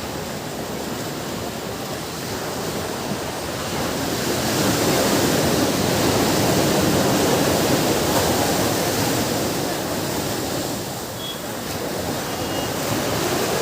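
Ocean surf washing onto a beach: a steady rush of breaking waves that swells to a louder wash about four seconds in, eases off around ten seconds, and builds again near the end.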